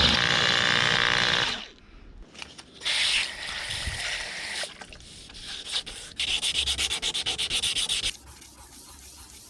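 A power tool grinding on thick steel plate, with a pitched whine, stops about a second and a half in. After a short burst, there are about two seconds of rapid, even rasping strokes on the metal, typical of working the cut edge smooth.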